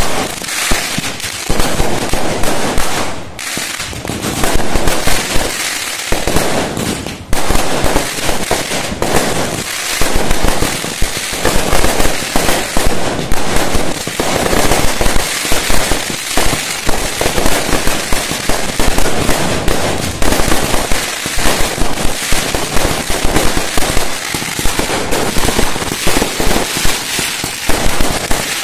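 A dense fireworks barrage: rapid, overlapping bangs and crackling that never let up.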